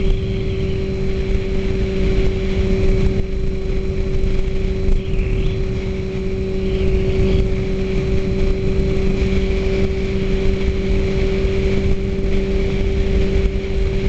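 2004 Suzuki GSX-R sportbike's inline-four engine running at steady revs while riding, a constant engine hum, with wind noise rumbling on the microphone.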